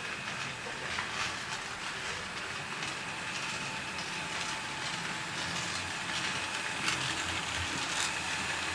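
Model train running on the club layout's track: a steady motor and wheel hum with scattered faint clicks from the wheels over the rails.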